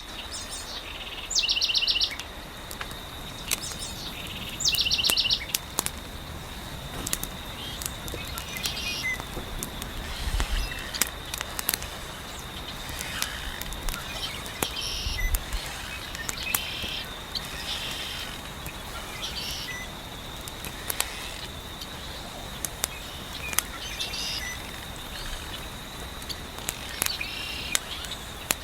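Wood fire crackling in scattered sharp pops, with birds chirping and two loud rapid trills in the first few seconds, over a steady high insect buzz.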